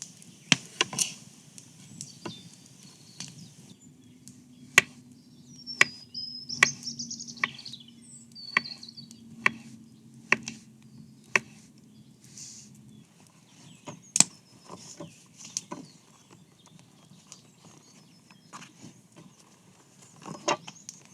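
Wood being chopped with a hand tool: a string of sharp, irregular knocks, roughly one a second. A bird chirps briefly in the first half.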